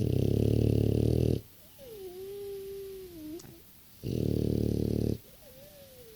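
French bulldog snoring in its sleep: two loud, rasping snores about four seconds apart, with a thin, wavering whistling tone between them.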